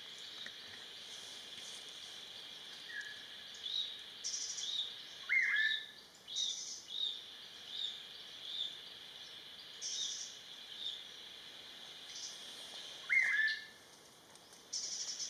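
Buff-throated babbler calling: a series of short rising notes about one to two a second, and two loud whistled notes sliding down, about five seconds and thirteen seconds in. A steady high drone runs underneath.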